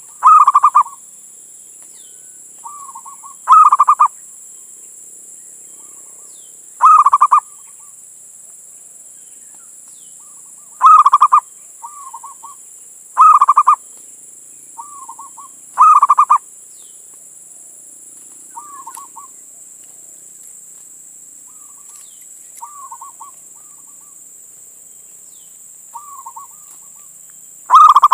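Male zebra dove (perkutut) cooing: a series of short, loud, rapid coo phrases repeated every few seconds, with a longer pause before the last one, and softer coos in between. A steady high hiss runs underneath.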